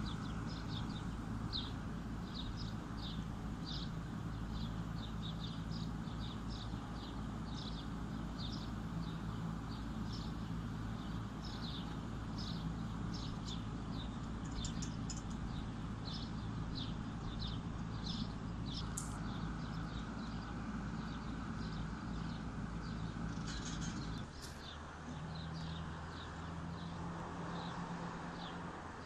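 Small birds chirping in short, high notes roughly twice a second, over a steady low machine hum that changes pitch about three-quarters of the way through.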